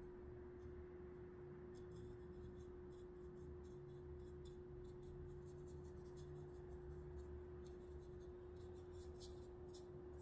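Faint, irregular scratchy strokes of a fine paintbrush on paper, starting about two seconds in, over a steady hum.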